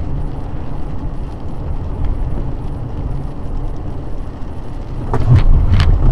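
Car driving, a steady low rumble of engine and road noise. About five seconds in the noise grows louder, with a few sharp clicks.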